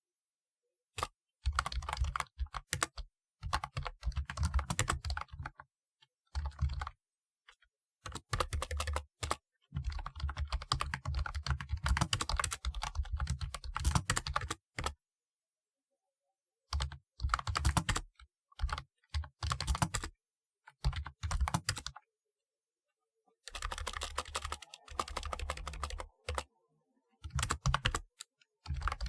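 Typewriter-style keyboard being typed on: runs of fast, sharp keystroke clicks in bursts of a few seconds, broken by short silent pauses.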